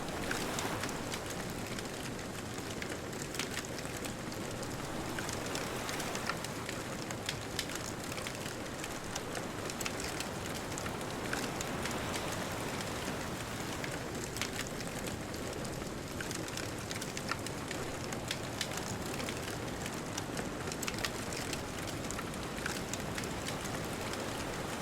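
Bonfire crackling, with frequent irregular sharp pops and snaps, over a steady rushing wash of distant ocean waves.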